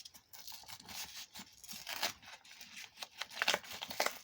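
Parcel packaging being torn and crinkled open by hand, in irregular scratchy rips that grow louder near the end.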